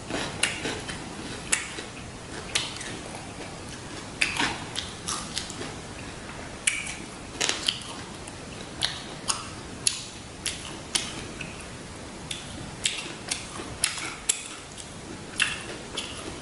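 Close-up chewing of a fresh rice-paper spring roll filled with shrimp, pork and lettuce: irregular crisp crunches and wet mouth clicks, about one or two a second.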